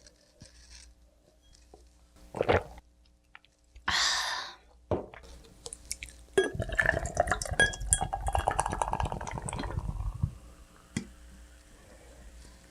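Tableware and a drink being handled: a clink, a short hiss, then about four seconds of liquid sounds with small clinks of a glass.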